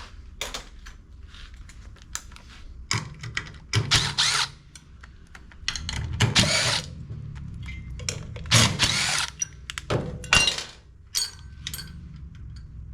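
Handheld cordless power tool, an electric ratchet or impact driver, running in several short bursts as it backs out engine bolts, with clicks of tools and parts in between.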